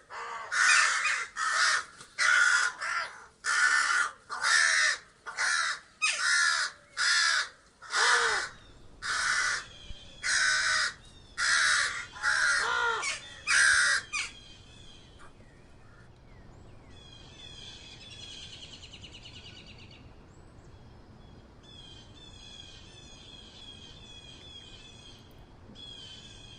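A crow cawing over and over, about fifteen loud caws roughly a second apart, which stop a little past halfway. Fainter, high trilling bird calls follow in two spells near the end.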